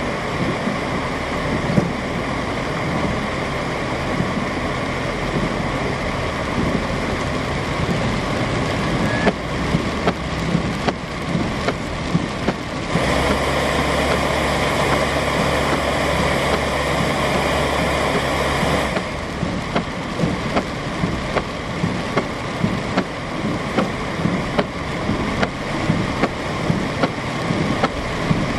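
Heavy rain falling, pattering with many small sharp ticks, over the sound of vehicles on wet streets. About halfway through a louder stretch of several seconds has a low steady engine hum, then drops away abruptly.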